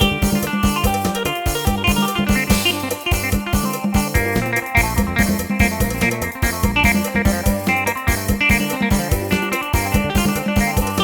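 Yamaha PSR-1000 arranger keyboard playing a Thai procession-style 'lai hae' tune in a plucked-string voice over its own fast, steady rhythm accompaniment.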